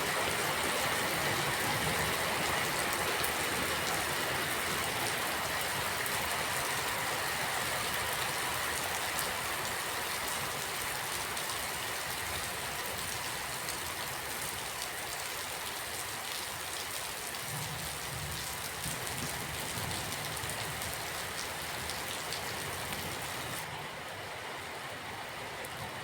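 Steady rain falling, an even hiss that slowly grows softer, with a faint low rumble about two-thirds of the way through.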